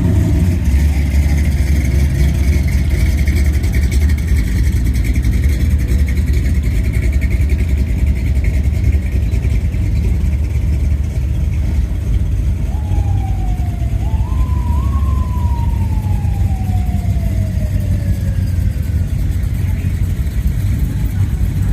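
A motor vehicle's engine running with a heavy steady rumble. About two-thirds through, a siren-like tone rises in two steps and then slides down over a few seconds.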